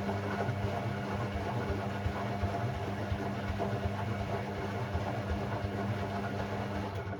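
Hoover AI130 washing machine running on its Delicate 15 cycle: a steady motor hum with rumbling and churning noise for about seven seconds, stopping near the end.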